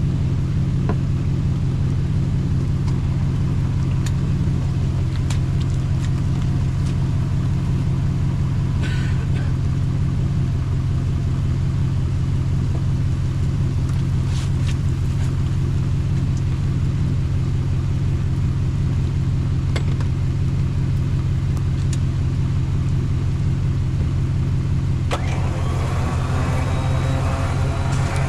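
Vehicle engine running with a steady low rumble while a truck is winched up out of a creek, with a few light clicks and knocks.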